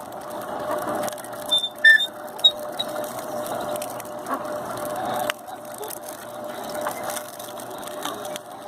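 Homemade sugarcane grinder driven by a small electric washing-machine motor, running with a steady hum under irregular mechanical rattling and clicks.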